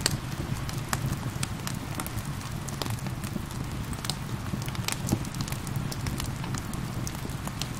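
Crackling fire with frequent sharp pops and snaps over a steady hiss and patter of rain.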